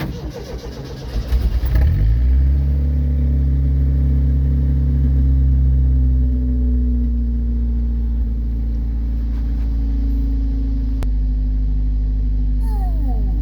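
Ford Ranger engine cold-started in freezing weather: the starter cranks for about two seconds, the engine catches and settles into a steady idle. A single click is heard near the end.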